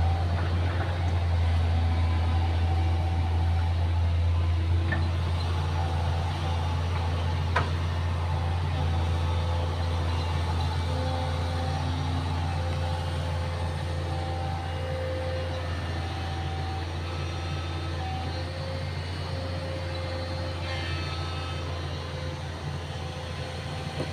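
Excavator's diesel engine running steadily with a deep drone, while higher held tones come and go over it. There is one sharp click about seven seconds in, and the engine grows slightly quieter over the last third.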